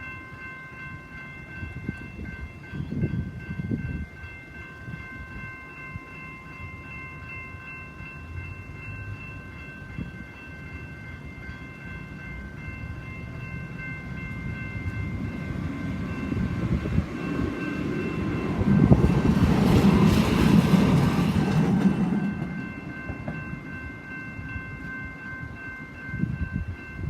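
Level crossing's electronic bells (GS Type 2 E) ringing steadily as a steady set of high tones, while a tram passes over the crossing, its rumble building and loudest about two-thirds of the way through before fading.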